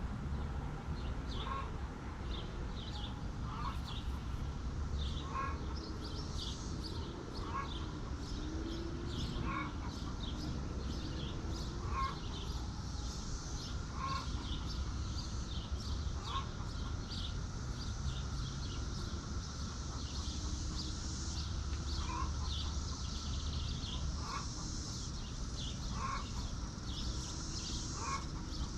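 Chickens clucking and making soft, low murmuring calls. A short sharp call repeats every second or two, with high chirping throughout over a steady low hum.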